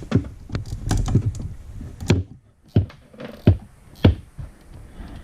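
Hand tools and metal parts clicking and knocking irregularly, about a dozen sharp clicks, while bolts on a snowmobile chaincase are worked with a socket wrench.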